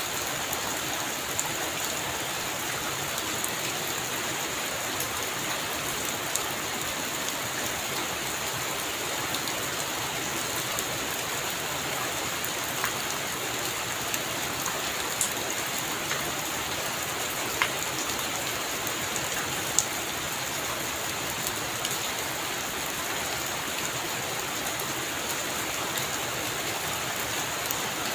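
Heavy rain falling steadily, a constant hiss with a few louder single drops ticking out of it now and then.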